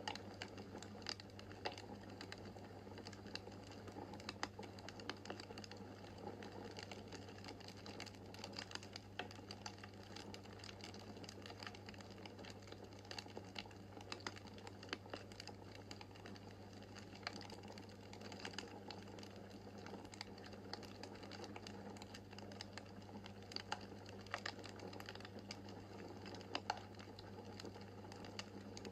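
Quiet crackling of a wood fire in a fireplace: a steady scatter of small, irregular pops and snaps over a faint, steady low hum.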